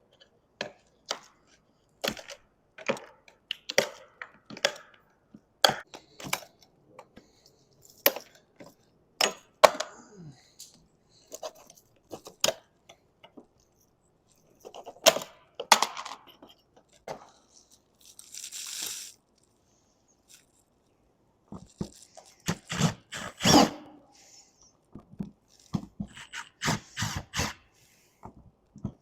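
Hand tools prying and scraping dried-out Dicor lap sealant and fittings off a camper roof vent: irregular sharp clicks, cracks and knocks, with a short hissing scrape past the middle and a quick run of knocks soon after.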